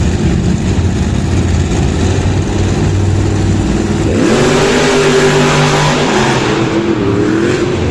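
Monster truck engine running, then revving up about four seconds in: the pitch rises and wavers and the sound grows louder and harsher.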